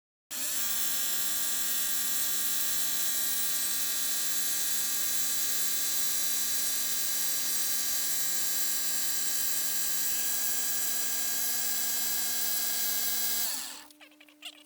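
Electric machine-tool spindle running at a steady speed, cutting in abruptly and giving a constant high-pitched whine; it winds down near the end.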